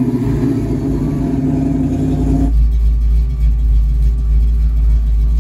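A 1969 Mustang's 351 Windsor V8 (E303 cam, ported heads) running as the car pulls away, its exhaust note loud and strongly pitched. About halfway it changes abruptly to the same engine idling with a steady low rumble, heard from inside the cabin.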